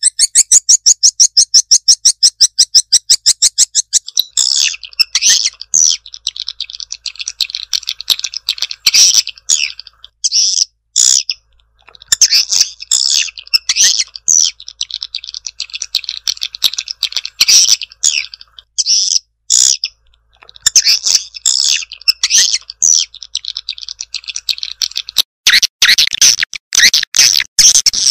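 Swiftlet lure-call recording of the kind played to draw edible-nest swiftlets into a nesting house: high chirps in a fast, even trill for the first four seconds, then bursts of rapid twittering with short breaks, denser near the end.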